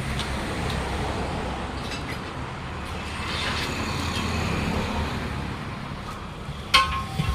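Steady low drone of a vehicle engine running. About two-thirds of the way in, one sharp clank rings briefly, with a smaller knock after it.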